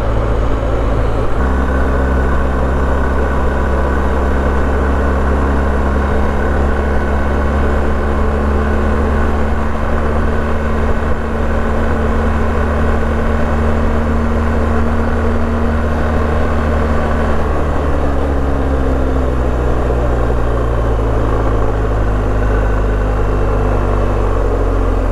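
BMW R1250GS boxer-twin engine running under way, over a steady rush of wind noise. The engine note changes about a second in and falls slowly through the second half.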